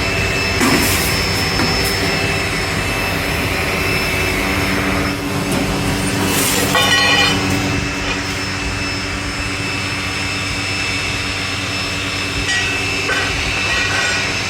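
Factory machinery running with a steady hum of several held tones. Brief hissing bursts come about a second in and again near the middle, the second followed by a short run of rapid ticks.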